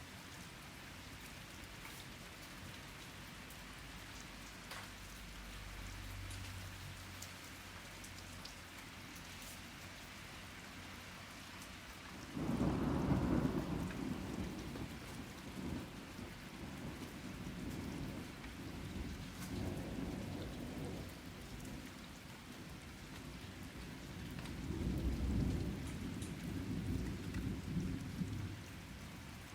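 Steady rain pattering, with drops clicking on a nearby surface. About twelve seconds in, a loud low rumble of thunder sets in suddenly and rolls on, swelling again near the end.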